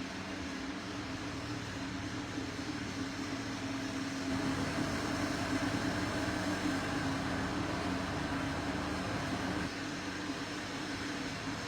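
Steady mechanical hum over background noise, slightly louder in the middle stretch.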